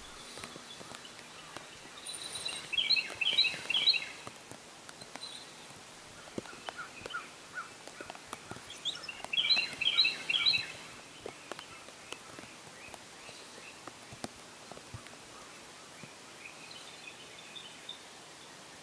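A songbird singing short phrases of quick, high chirping notes, twice loudly, about three seconds in and again about ten seconds in, and once more faintly near the end, over faint scattered ticks and a low outdoor hiss.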